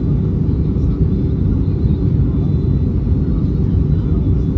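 Steady low rumble of engine and airflow noise inside an Airbus A320 airliner's cabin in flight, with a faint high steady whine over it.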